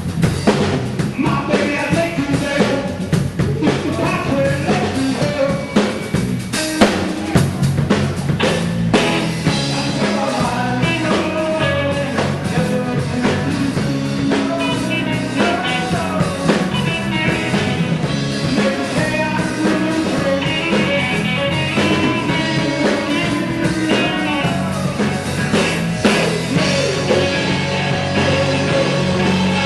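A rock band playing a song, with a drum kit keeping a steady beat under the other instruments.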